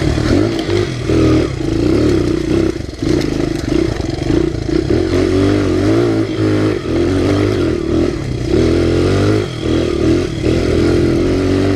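Honda XR100R pit bike's single-cylinder four-stroke engine running under load as it is ridden, its pitch rising and falling with the throttle and easing off briefly a few times.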